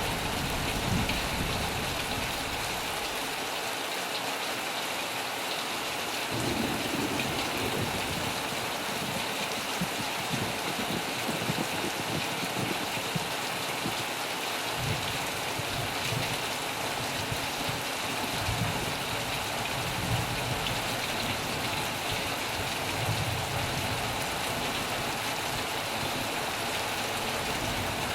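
Heavy rain drumming steadily on a metal roof, with low rumbles of thunder swelling up several times.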